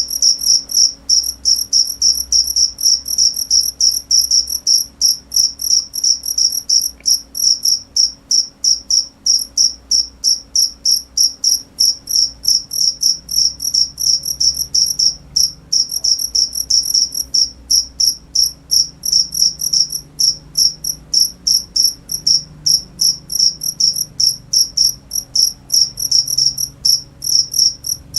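Cricket chirping: a steady, unbroken run of short, high-pitched chirps, about four a second.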